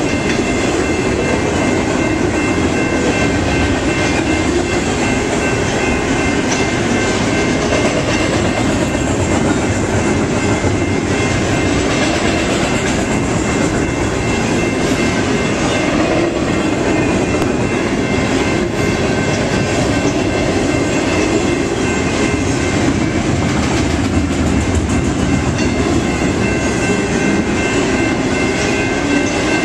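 BNSF intermodal freight train's cars rolling steadily past, a continuous loud rumble and clickety-clack of wheels over rail joints, with steady high ringing tones over it.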